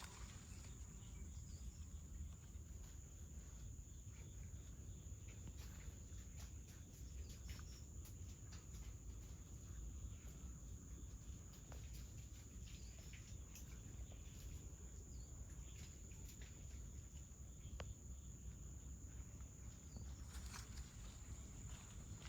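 Faint outdoor background: a steady high-pitched whine, a low rumble, and scattered soft clicks and rustles.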